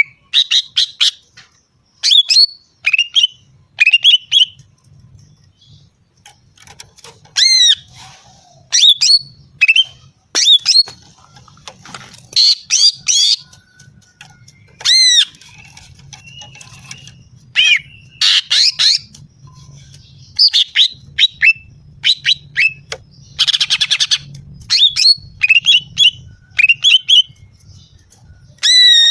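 Female cucak ijo (green leafbird) calling: short, sharp, harsh notes and chirps in irregular clusters with brief pauses, including a rapid buzzy trill about two-thirds of the way in. This is a call used to lure and provoke male cucak ijo.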